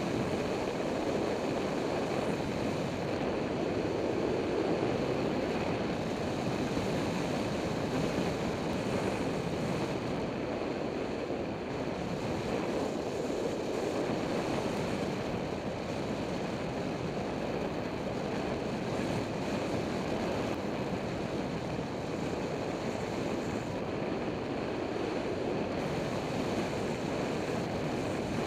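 Steady rush of wind buffeting the microphone, an even noise with no engine heard.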